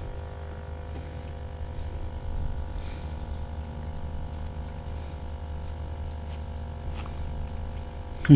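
Steady high-pitched insect trilling over a constant low hum, with no distinct events.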